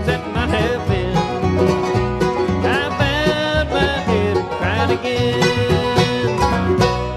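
Acoustic bluegrass band playing the closing instrumental bars of a song, with sliding string notes over picked strings, ending on a held chord that starts to die away near the end.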